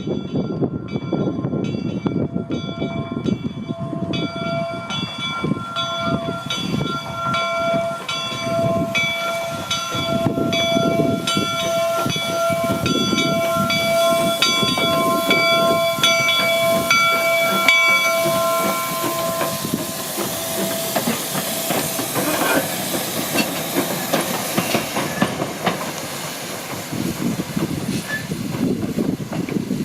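Steam locomotive ringing its bell, then blowing its steam whistle in a long, steady tone for about fifteen seconds. Once the whistle stops, a loud hiss of steam takes over, over a low rumble.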